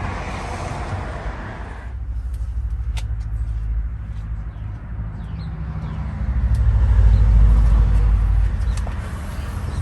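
Low rumble of a vehicle engine running, swelling to its loudest about seven seconds in, with a few short bird chirps midway.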